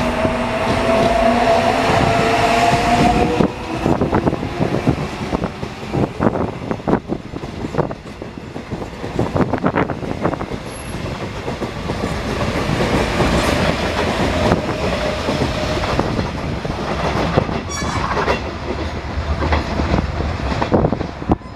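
Electric subway train pulling out of the station: its traction motors whine, rising in pitch for about three seconds. The wheels then clatter over rail joints as the cars roll past.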